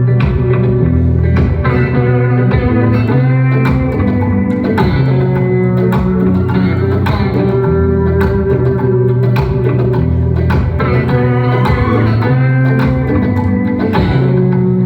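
Live instrumental guitar music from a guitar duo: plucked guitar notes ringing over a repeating low bass line, playing steadily without a break.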